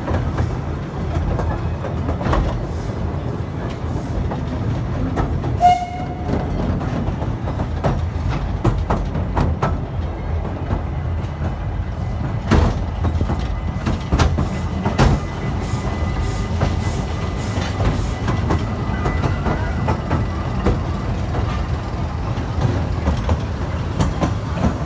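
Efteling amusement-park train running, a steady low rumble with its wheels clicking over the rail joints. A brief tone sounds about six seconds in.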